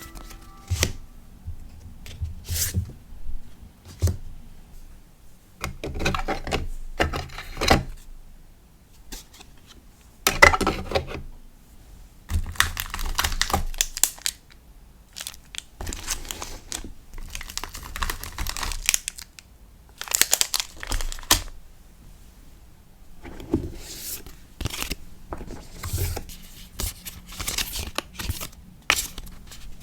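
Hands handling packing materials for a sticker order: paper and plastic crinkling and tearing in irregular rustles, with light taps and clicks between them.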